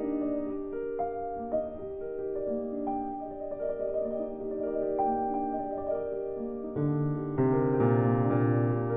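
Slow, gentle background piano music of held notes and chords; lower notes come in and it grows louder about seven seconds in.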